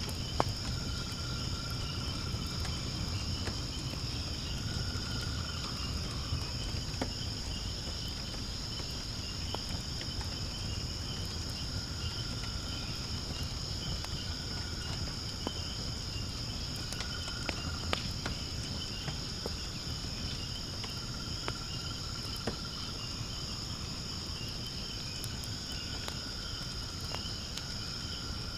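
Wood fire burning in a fire pit with a low steady rumble and scattered sharp crackles and pops, over a steady high chorus of chirping insects. A lower trill comes and goes every few seconds.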